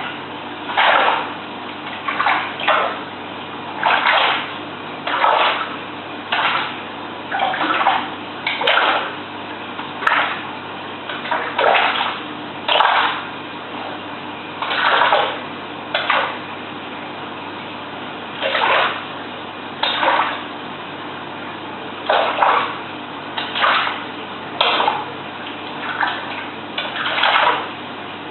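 Repeated splashing at the surface of a piranha aquarium, short splashes coming about once a second at uneven spacing, over a steady low hum.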